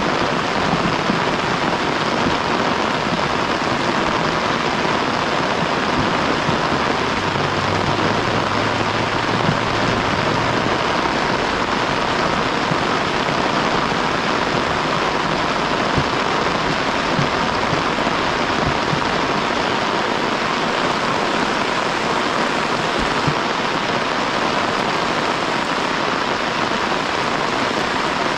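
Heavy rain falling steadily, a dense even patter of drops on the ground and leaves, with a few faint knocks along the way.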